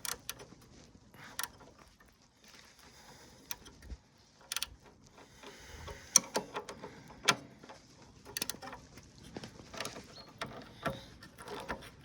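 Hand socket ratchet and spanners clicking and clinking against the motorcycle's exhaust fixings as the bolts are worked loose; irregular sharp clicks, coming thicker in the second half.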